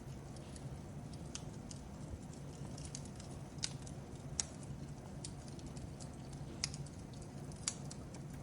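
Fireplace fire crackling: a low steady rumble of burning with scattered sharp pops and snaps, roughly one every second or so, the loudest a little past the middle.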